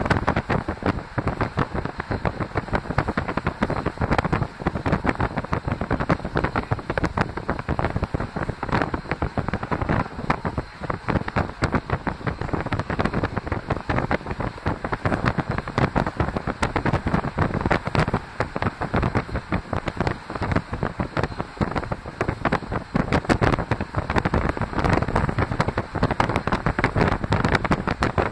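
Moving passenger train heard from the upper deck of a double-decker coach: continuous rolling and rushing noise with dense crackling wind buffeting on the microphone.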